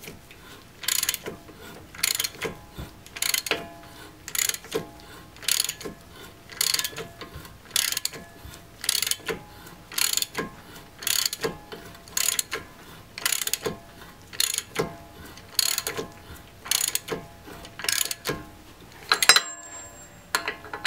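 A 1/2-inch drive ratchet with a 30 mm socket clicking as it is worked back and forth on a CV axle nut, in strokes about once a second. Near the end comes one sharper, louder click.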